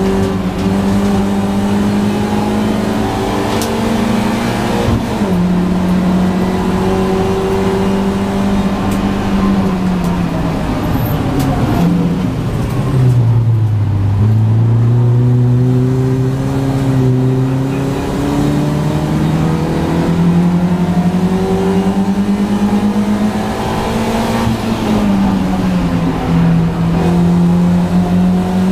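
BMW Compact race car engine under racing load, heard from inside the stripped cabin. It pulls hard with a drop in pitch at an upshift about five seconds in. About twelve seconds in the revs fall away to a low note, then climb steadily back up, with another shift near the end.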